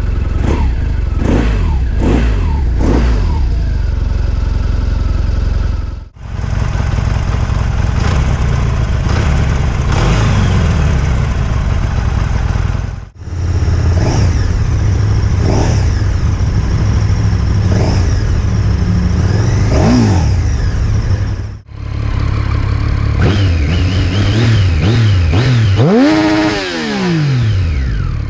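Motorcycle engines running and being revved in four separate recordings cut back to back, each engine blipped up and back down; near the end one rev climbs and falls away clearly.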